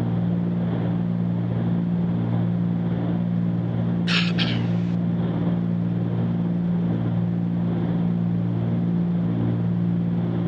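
Cessna 310Q's twin piston engines droning steadily in the climb, heard from the cockpit. There is a brief double burst of hiss about four seconds in.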